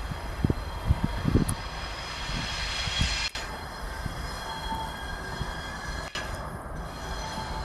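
ChME3 diesel-electric shunting locomotive rolling into a station, a steady rumble with high squealing tones from the wheels. A few low knocks come in the first second or so.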